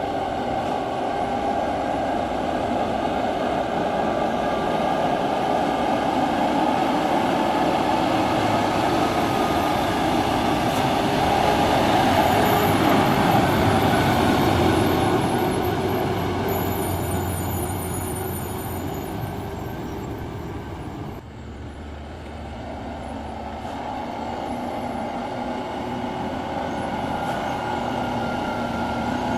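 Heavily loaded dump truck's diesel engine running as it drives past, growing louder to a peak about halfway through. The sound breaks off abruptly about two-thirds of the way in, and a truck engine is heard again, running steadily.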